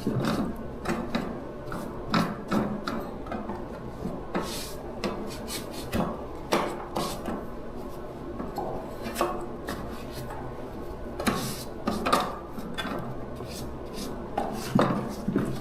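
Irregular rasping, scraping strokes mixed with light clicks and knocks, as of hand work on small parts.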